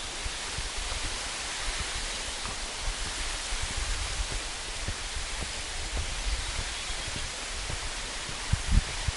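Steady rushing of a waterfall, with scattered low thumps on the microphone and a louder pair of them near the end.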